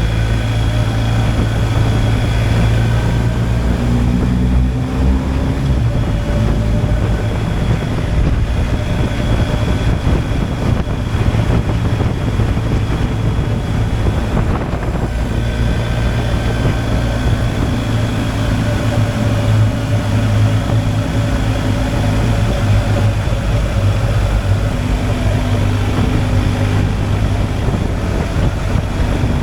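BMW R 1250 GSA's boxer twin engine running at road speed, with wind noise on the microphone. The engine note shifts a little a few seconds in and dips briefly about halfway through, as the throttle changes.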